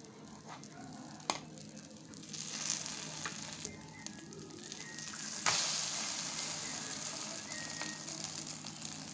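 Egg omelette sizzling in hot oil in a pan, with a spatula scraping underneath it. About five and a half seconds in it is flipped with a sharp slap and the sizzling jumps louder, then slowly eases.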